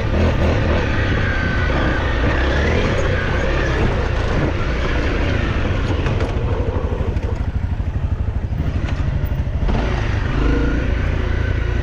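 Off-road motorcycle engine running, then dropping to a slow, evenly pulsing low-rev beat from about six to ten seconds in before picking up again.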